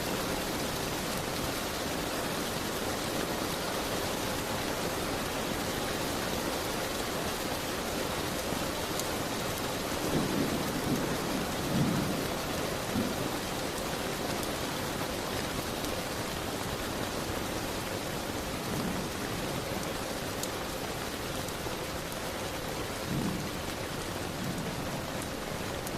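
Steady rain falling, a dense even hiss, with a few brief low rumbles rising through it, clustered about ten seconds in and again once or twice later.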